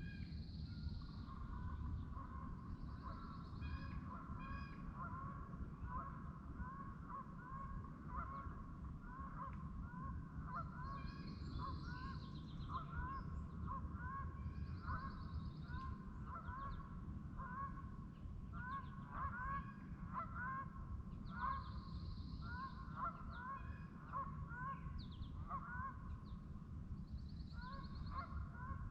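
A flock of geese honking continuously, many short calls overlapping, with higher buzzy calls from other birds now and then and a steady low rumble underneath.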